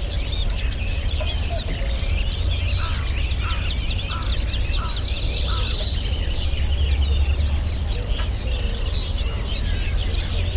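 Many birds calling at once in a forest chorus of high chirps, whistles and trills, with a fast rattling trill and a lower call repeated five times in the first half, over a steady low rumble.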